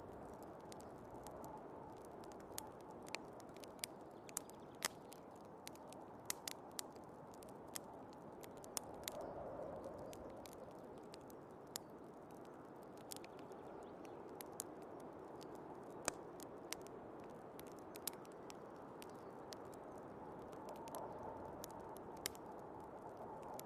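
Wood fire crackling, with sharp irregular pops that come more thickly in the first half, over a steady low rush of storm wind.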